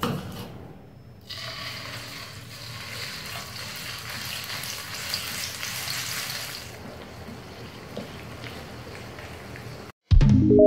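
Ground sambal paste sizzling in hot oil in a wok as it is stirred with a wooden spatula. The sizzle starts suddenly about a second in and eases off after a few seconds. Near the end a loud musical chime cuts in.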